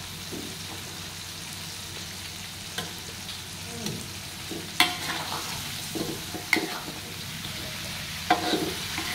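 Fish frying in sambal in a metal wok, a steady sizzle, while a metal spatula stirs and turns the fish, scraping and knocking against the wok now and then. The sharpest knock comes about five seconds in.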